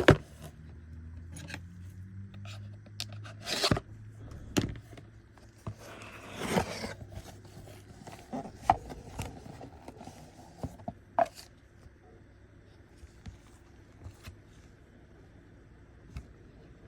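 Cardboard subscription box and its paper packaging being handled and opened by hand: scattered taps and knocks with a couple of short scrapes, one about three and a half seconds in and a longer one about six seconds in, then quieter light handling.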